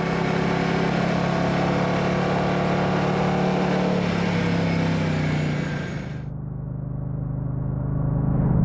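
Moto Guzzi Stelvio's transverse V-twin engine running under way through the turns, its pitch easing down slightly. About six seconds in the sound suddenly turns duller and more muffled, then swells again near the end.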